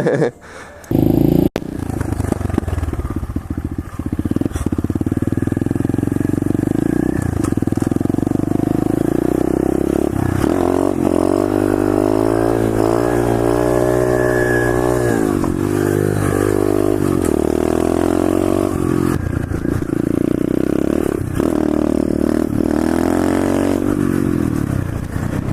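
Pit bike engine running while riding, its pitch rising and falling with the throttle, with a long rev up and back down around the middle. A brief loud rush of noise about a second in.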